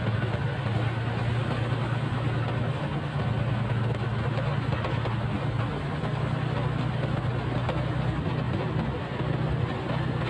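Motorcycle engine running at a steady pace while riding, a constant low hum with wind and road noise over it.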